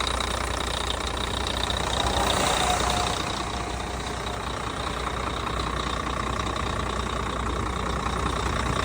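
Volvo engine idling steadily, with a thin steady high tone above the rumble.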